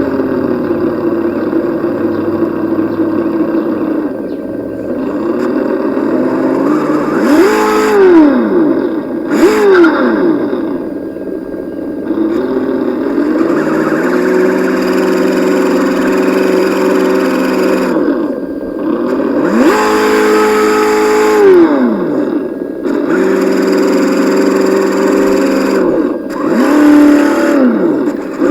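Engine sound kit on an Axial SCX10 RC crawler, its speaker playing a simulated engine that follows the throttle. It holds steady for stretches and revs up and drops back again several times.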